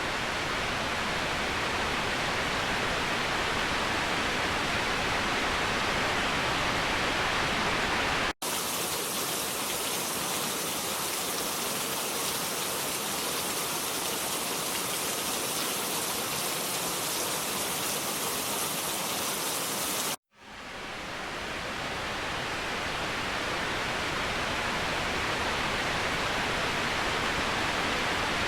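Waterfall: a steady rush of falling water. The sound drops out abruptly twice, about 8 seconds in and about 20 seconds in, where the recording is spliced. The middle stretch is hissier, with less low rumble, and after the second break the sound fades back in.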